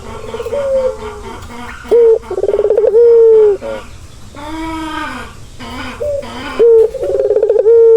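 Male ringneck dove (Barbary dove) cooing. Twice, a short note leads into a rolling, fast-pulsing coo that ends on a long drawn note, with a softer arched call between the two phrases.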